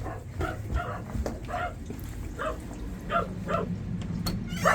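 A dog barking in a quick series of short, high yips, about eight in under four seconds, with a rising squeal right at the end.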